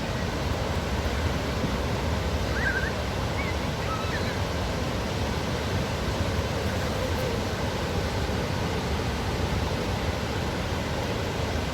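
Steady rush of water cascading from the Dubai Water Canal waterfall into the canal, an even wash with no breaks.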